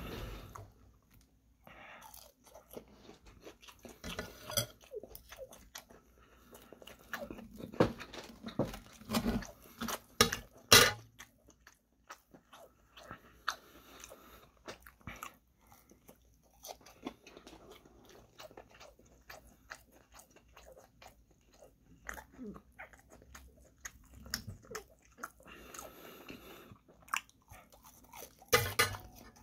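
Close-up chewing and crunching of breaded, fried chicken katsu: irregular crisp crunches of the coating between wet chewing, loudest about eight to eleven seconds in and again near the end.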